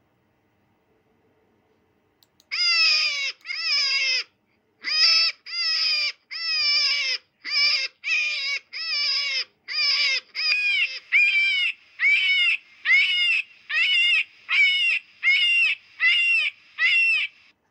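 An animal calling over and over: about twenty short, pitched calls, each dropping in pitch, in a fast steady series that starts a couple of seconds in.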